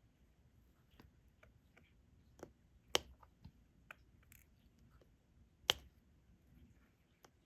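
Faint, scattered clicks and light taps of diamond-painting work: resin drills picked up with a drill pen and pressed onto the adhesive canvas. Two sharper clicks stand out, about three seconds in and just before six seconds.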